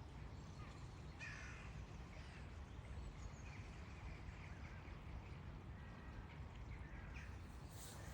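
A few short bird calls, the first about a second in and more from about six seconds in, over a steady low rumble.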